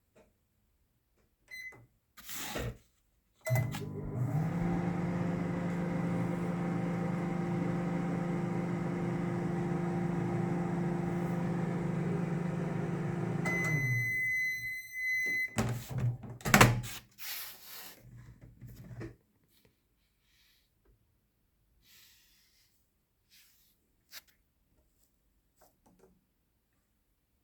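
Sharp microwave oven: a short keypad beep, then it runs with a steady hum for about ten seconds, stops, and gives one long beep. A few clunks follow, then it goes quiet.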